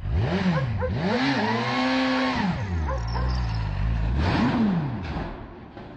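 Motorcycle engine revving up and down three times, the longest rev held for about two seconds in the middle. The sound fades near the end.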